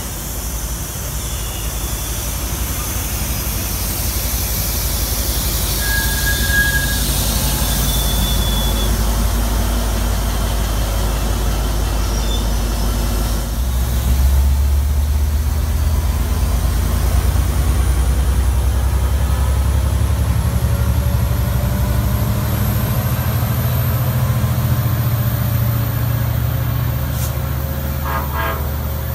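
NCTD Coaster bilevel commuter train rolling past as it departs, with wheels and cars running steadily; about halfway through the EMD F59PHI diesel locomotive pushing at the rear passes and its 12-cylinder two-stroke engine drone becomes loud and low, then eases slightly as the train pulls away.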